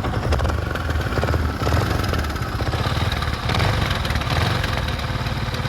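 Yamaha R15 V4's 155 cc single-cylinder engine idling steadily with a rasping "khar khar khar" rattle from its worn, loose timing chain.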